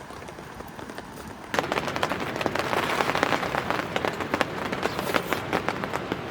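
Heavy rain falling and pattering on a surface, with many separate drop strikes. About one and a half seconds in it suddenly becomes louder and denser.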